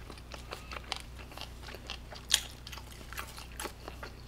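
Close-up chewing of grilled pork belly: a run of short, wet mouth clicks and crunches, with one louder crunch about two seconds in.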